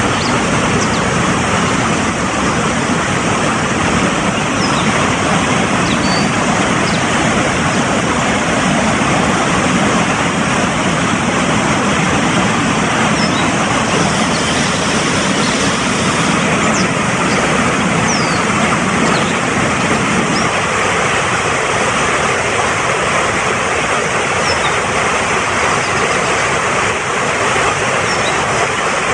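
Fast-flowing mountain stream rushing steadily, with a few faint short bird chirps now and then.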